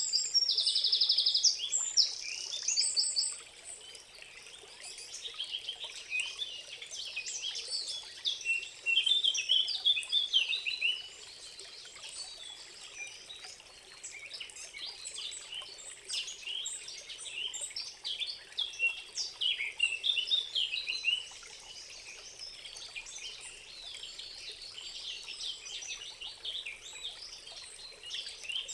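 Many songbirds singing and calling together in a forest, a dense chorus of short chirps and rapid trills. The chorus is loudest in the first three seconds and again from about eight to eleven seconds in.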